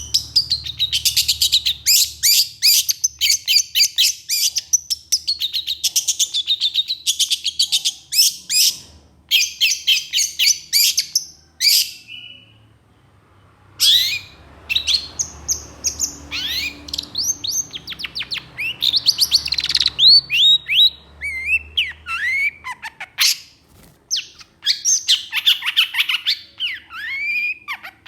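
Long-tailed shrike (cendet) singing in rapid, harsh chattering bursts, breaking off briefly about twelve seconds in, then going on with separate chirps and quick downward-sliding notes before more rapid bursts near the end.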